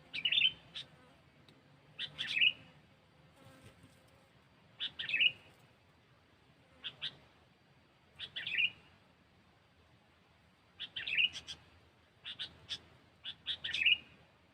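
Sooty-headed bulbul (kutilang) calling: short, bright chirping phrases every couple of seconds, coming in quicker succession near the end.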